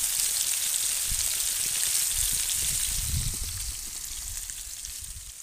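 Food sizzling in a frying pan: a steady, crackling hiss that fades away near the end.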